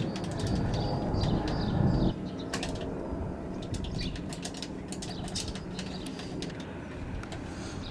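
AgustaWestland AW139 twin-turbine helicopter flying overhead: steady rotor beat and turbine hum, loudest in the first two seconds and then easing a little.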